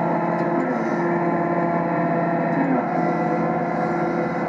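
ACO 460 articulated tractor's engine and powershift drivetrain running steadily under heavy load while ripping maize stubble.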